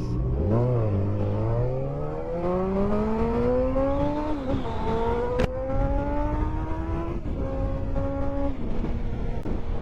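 Honda CBR600F's inline-four engine accelerating through the gears: the pitch climbs, dips at an upshift about four and a half seconds in, climbs again to a second shift near seven seconds, holds steady, then eases off near the end. Wind rush runs underneath.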